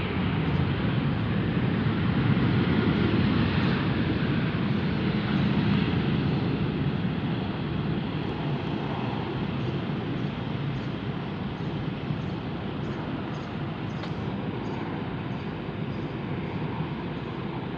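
Jet airliner's engines passing close by: a broad, deep rumble that is loudest a few seconds in and then slowly fades.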